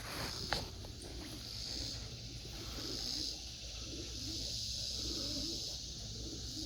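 Pigeons cooing: repeated low, wavering coos, with a steady high hiss behind them.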